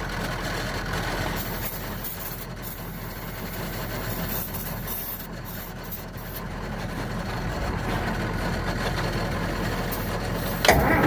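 Vehicle engine idling steadily in the cold, with a sudden louder noise coming in near the end.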